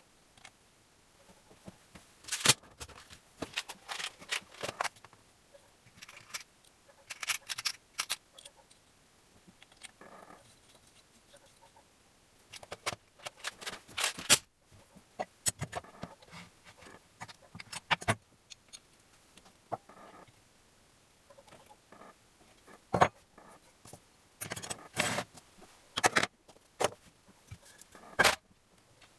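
Metal tools and small engine parts clinking and clicking in irregular bunches during hand assembly of a Gilera Sport 150 motorcycle engine, with a few sharper knocks among them.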